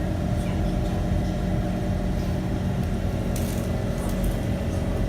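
SMRT C151 MRT train running between stations, heard from inside the car: a steady low rumble with a steady hum and faint scattered ticks.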